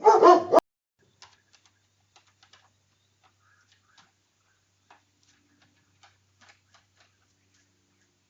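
A dog gives one loud bark that cuts off abruptly after about half a second, followed by faint, scattered ticks and clicks.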